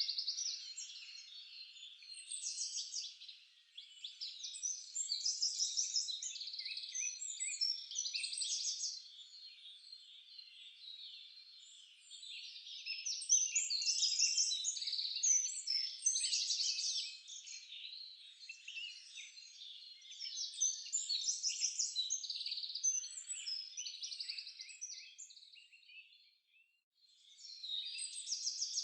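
Several songbirds singing and chirping at once, a dense chorus of quick high notes and trills that swells and fades in waves, with a brief lull shortly before the end.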